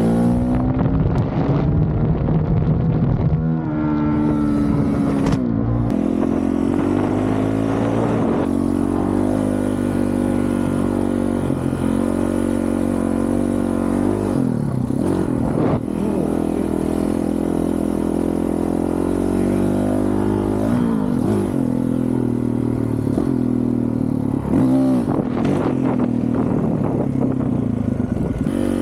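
2023 Honda CRF450RL's single-cylinder four-stroke engine, breathing through a full titanium Yoshimura RS-4 exhaust, under way on the road: its pitch climbs as it revs up, then drops with each shift, over and over.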